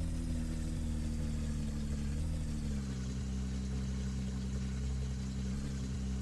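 An engine running steadily at low speed, its pitch easing down a little about two and a half seconds in and lifting briefly near the end.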